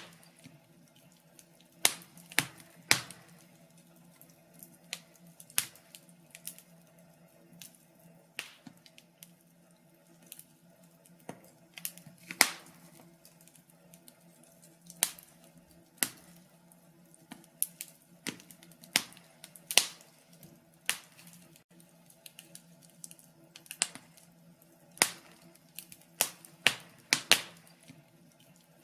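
Wood fire crackling: irregular sharp pops and snaps, one or two a second and some much louder than others, over a faint steady hum.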